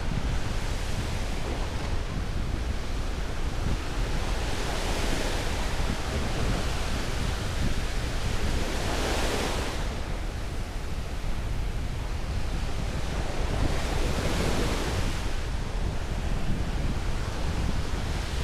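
Ocean surf breaking and washing up the beach in swells that rise and fall every four to five seconds, with wind buffeting the microphone as a steady low rumble.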